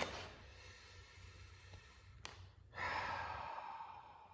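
A man's long breathy sigh, falling in pitch and fading, about three seconds in, preceded by a short sharp noise at the start and a single click a little after two seconds.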